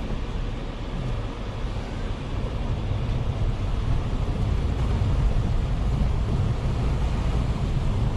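An SUV's engine running as it drives into a river crossing, a low rumble that grows steadily louder over the first few seconds.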